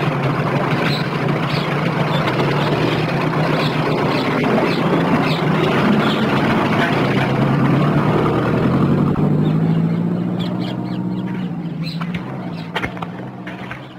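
Vintage car's engine running steadily under a noisy rush, with a few short high calls over it in the first half; the sound fades over the last few seconds.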